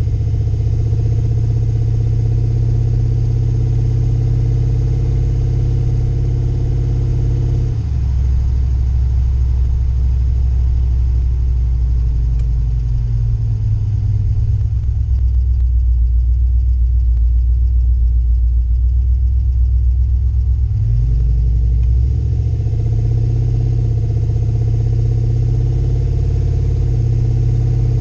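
Turbocharged pickup truck engine running steadily; its note drops to a lower pitch about 8 seconds in, wavers, and climbs back up a little after 20 seconds.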